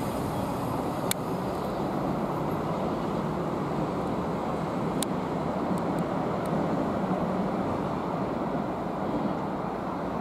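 A Class 345 electric multiple unit approaching slowly over pointwork: a steady rumble of wheels and running gear with a faint hum, and a couple of short sharp clicks.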